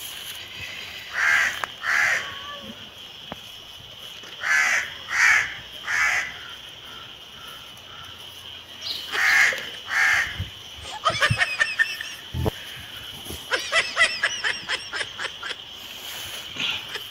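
Crows cawing, in short series of two or three harsh calls, then two fast chattering runs of calls near the end. A steady high-pitched whine runs underneath.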